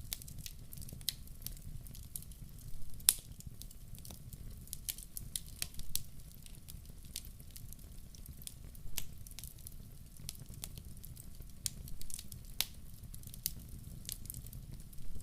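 Log fire crackling in a wood-burning stove: irregular sharp pops and snaps over a low steady rumble, with the loudest pop about three seconds in.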